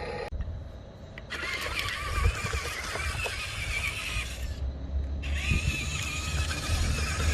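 Electric motor and gearbox of a radio-controlled construction model whining with a wavering pitch, running twice with a short break in between, over a low rumble.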